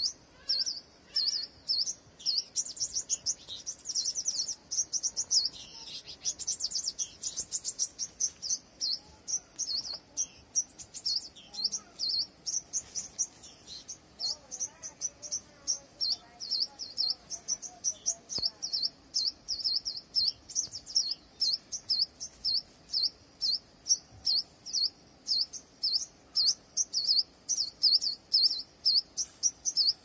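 A small bird chirping over and over in short, high chirps, about two or three a second, quickening into rapid runs a few seconds in and again around seven to nine seconds in.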